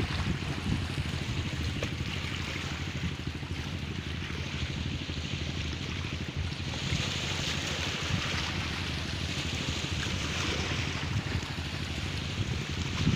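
Strong wind buffeting the microphone over the wash of rough sea waves, a steady rumble with hiss.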